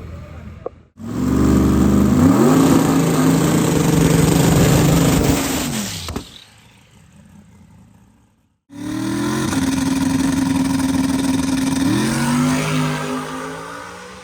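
Twin-turbo big-block V8 of a drag car revving up and held at high rpm for several seconds before dropping off. After a brief cut it runs again at a steady high pitch, rising once more near the end and fading.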